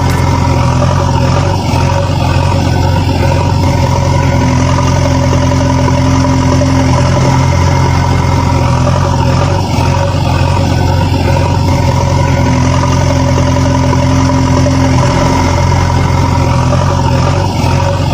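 Engine running steadily at an even, idle-like speed with a low, deep hum, an engine sound laid over the toy construction footage.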